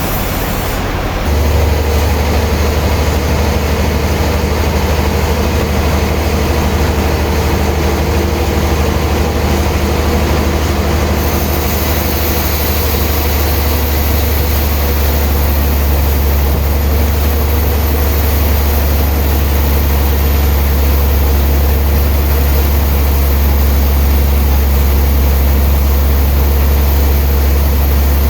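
Heavy sawmill machinery running steadily with a deep engine hum, which steps up and gets louder about a second in.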